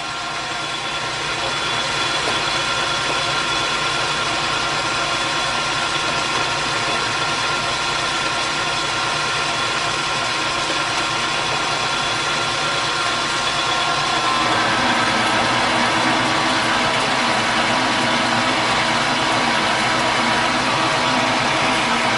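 Metal lathe running steadily under a heavy roughing cut: a constant drone of motor and gears with the cutting noise. The tone shifts about two-thirds of the way through.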